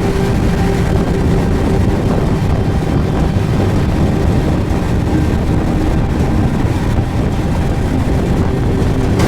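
Suzuki GSX1250FA's inline-four engine running steadily while riding at a constant pace, with wind noise on the microphone.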